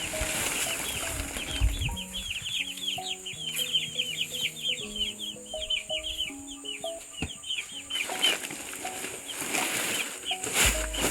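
Young chickens peeping: a rapid, dense chorus of short high cheeps. A melodic music track plays underneath from about two seconds in until about eight seconds, and a short burst of noise comes near the end.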